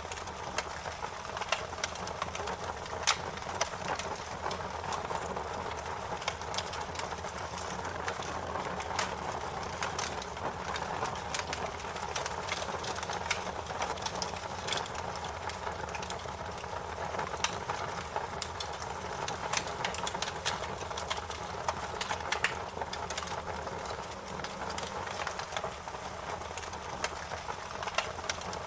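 Wood fire crackling steadily, with irregular sharp pops and snaps over a low hiss of burning.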